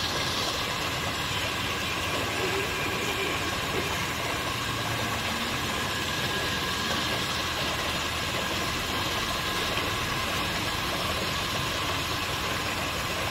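Engine idling steadily, with an even hiss over it.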